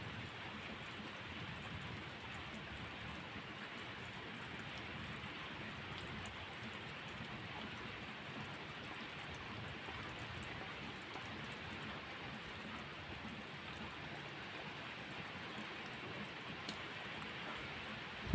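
Steady rain falling, an even hiss of drops with no break, with a few faint clicks scattered through it.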